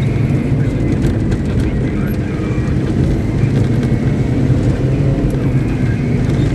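Caterpillar 777D off-highway haul truck's large diesel engine running steadily during a stationary ground test, a deep, even, low rumble.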